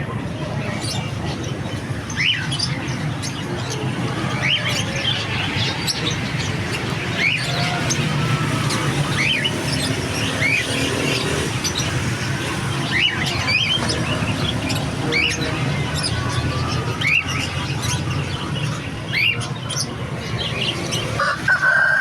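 Lovebirds and budgies chirping: short, rising chirps come every second or so over a steady low background rumble. A longer pitched call sounds near the end.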